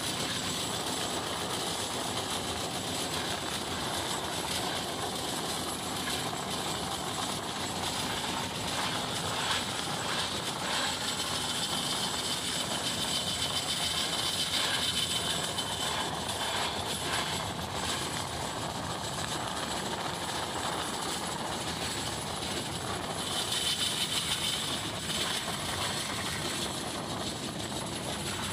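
Mumbai Express passenger coach running at speed: a steady rush of wind and wheel-on-rail noise heard at the open coach window, with a high hiss that swells twice and a few faint rail knocks.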